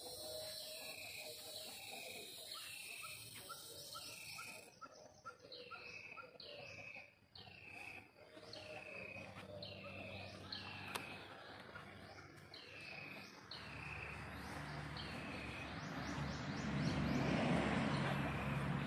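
A bird calling over and over, a short falling whistle repeated about every two-thirds of a second, with a few lower, quicker chirps between about two and four seconds in. In the last few seconds a low rumble and rushing noise swells up and becomes the loudest sound.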